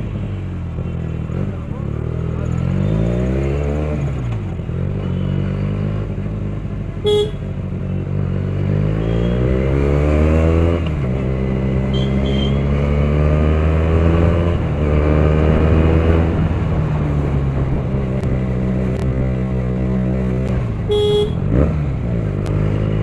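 Benelli TNT 300 parallel-twin engine and exhaust, revving up and dropping back again and again as the bike is ridden. Two short vehicle horn toots cut in, about seven seconds in and near the end.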